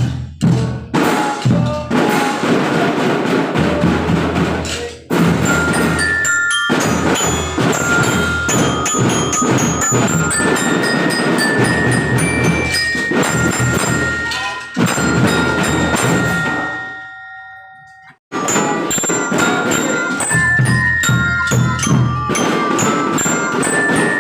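Children's drum band playing a tune: glockenspiel-type mallet percussion carries the melody over marching drums. The music dies away about sixteen seconds in and starts again about two seconds later.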